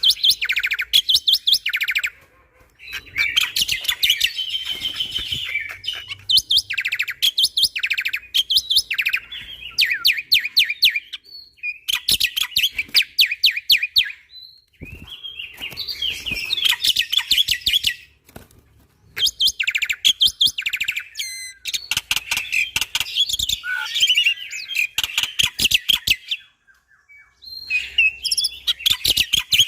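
Black-winged starling singing: loud phrases of rapid, sharp repeated notes and chatter, each lasting two to three seconds with short pauses between.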